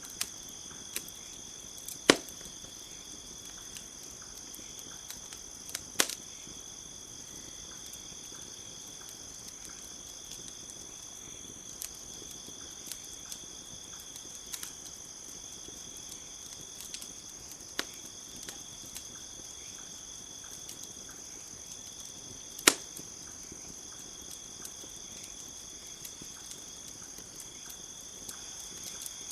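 Campfire crackling with a few sharp, sparse pops, the loudest about 2, 6 and 23 seconds in, over a steady high-pitched chorus of crickets.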